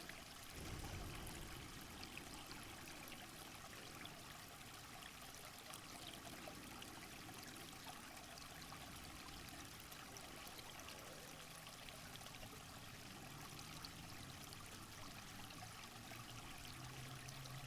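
Faint, steady rush of running water, with a brief low rumble about a second in.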